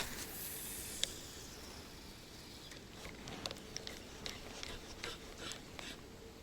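Casting with a spinning rod: a sharp swish as the cast starts, line hissing off the reel spool and fading over about a second and a half, with a click about a second in. After that come faint, scattered ticks from the reel and tackle.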